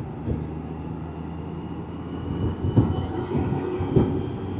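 Can-Am Spyder's engine running steadily at cruise, with wind and road noise over it and a couple of light knocks near the end.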